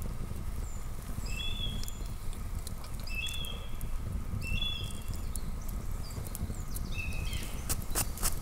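Campfire crackling with a steady low rumble, and a few sharp cracks near the end. A short high two-tone chirp repeats four times.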